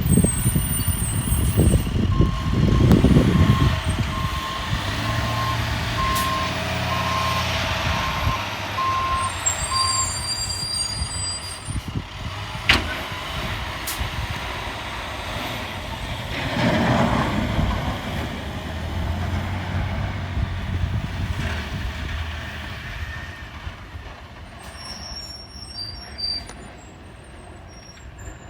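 A heavy truck's engine running, with its reversing beeper sounding about once a second from about two seconds in until about ten seconds in. A single sharp click comes about halfway through.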